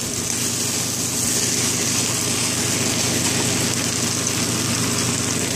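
Vegetable fried rice sizzling in a wok over a steady low hum.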